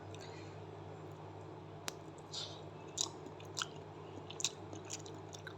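Faint mouth smacks and clicks of someone eating a soft steamed pudding of jaggery, coconut milk and egg that melts in the mouth. There are about half a dozen short sounds spread over a few seconds, over a low steady hum.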